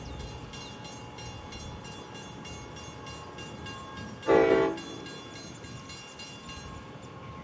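Train at a station giving one short horn blast about four seconds in, over a steady low rumble and a fast, even ringing that fades out near the end.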